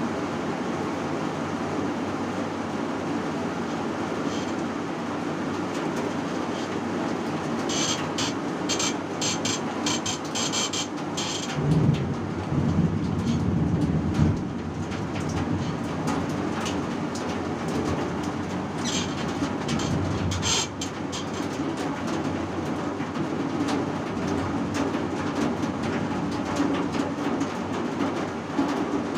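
Heavy rain with a steady low rumble, with runs of sharp clicks and taps about a third of the way in and again about two-thirds of the way through.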